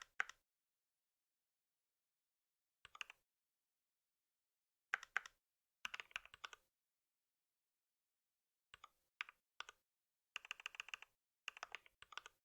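Computer keyboard typing in several short bursts of keystrokes, with pauses of silence between them.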